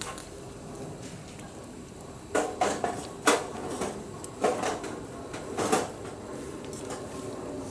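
Light clinks and knocks of bowls, utensils and pot, five or so scattered short strikes over a steady low background.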